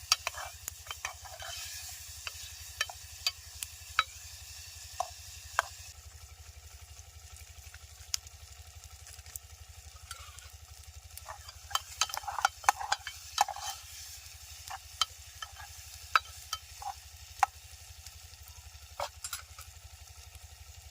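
Wood fire crackling: irregular sharp pops over a faint hiss, with a busier run of pops about twelve seconds in, and a steady low hum underneath.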